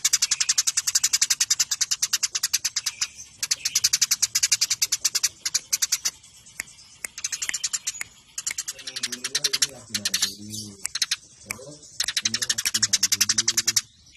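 Eurasian tree sparrows (burung gereja) giving fast, tightly packed fighting chatter: long bouts of sharp chips, more than ten a second, with short breaks between bouts. From about two-thirds of the way in, a low wavering voice-like sound runs under the chatter.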